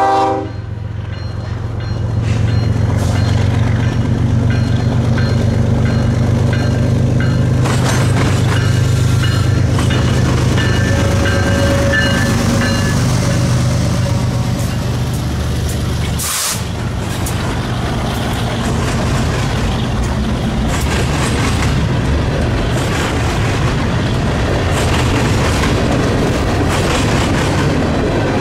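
Freight train passing close by. For the first half its diesel locomotives give a deep, steady engine rumble; after that the rolling freight cars make a steady clatter of wheels over the rails, with a short hiss about sixteen seconds in.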